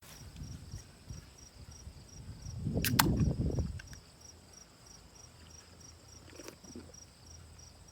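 Crickets chirping steadily, about four to five chirps a second. About three seconds in there is a brief low rumble with two sharp clicks.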